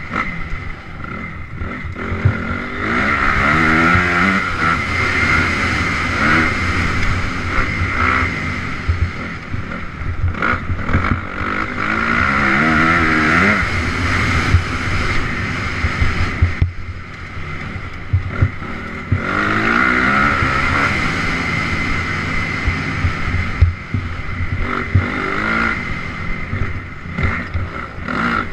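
Honda CRF 250R dirt bike's single-cylinder four-stroke engine being ridden hard: the throttle opens and closes again and again, the engine pitch climbing in repeated rising sweeps and falling back between them, over a constant rough rush of noise.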